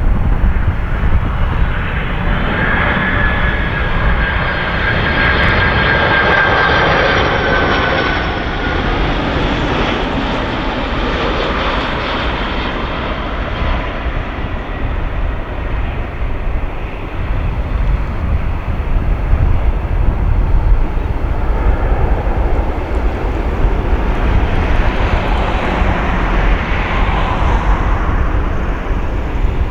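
Airliner's jet engines roaring as the aircraft passes. A high turbine whine falls slightly in pitch over several seconds, and the roar swells again near the end.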